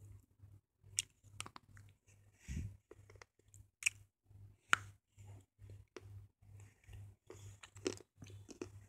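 A slate pencil being chewed: a run of irregular, sharp crunches and cracks as the soft stone breaks between the teeth.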